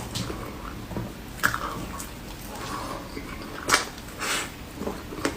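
Close-miked chewing and biting of soft cake and fruit, with a few sharp clicks about one and a half seconds and nearly four seconds in and short crackly bites between them.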